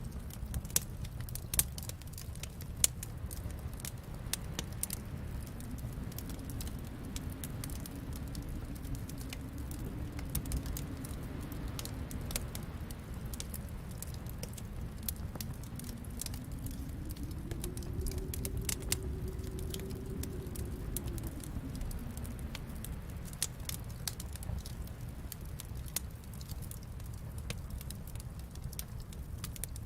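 Wood fire crackling in a fireplace, with frequent sharp pops over a low steady rumble, and a snowstorm wind moaning softly behind it, slowly rising and falling in pitch.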